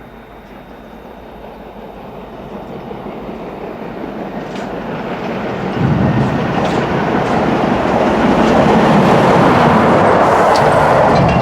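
LMS Jubilee 4-6-0 locomotive 45699 Galatea approaching on an engine move and running past, its rumble growing steadily louder and becoming loud from about six seconds in, with wheel clatter on the rails.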